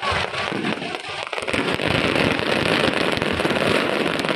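Aerial fireworks bursting in quick succession, a dense crackling that thickens and grows louder about a second and a half in.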